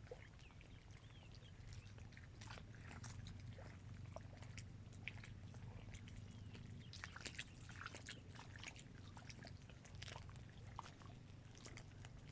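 Small waves lapping faintly at the edge of a dam reservoir: a scatter of soft splashes and clicks over a low steady hum.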